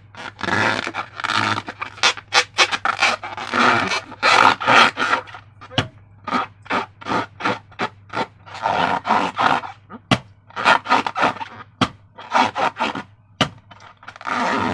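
Slime being squished and kneaded by hand, in irregular wet bursts with a few sharp clicks.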